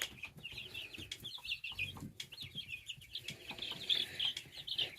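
A brood of baby chicks peeping: many short, high, downward-slurred cheeps overlapping without a break, with a few light clicks among them.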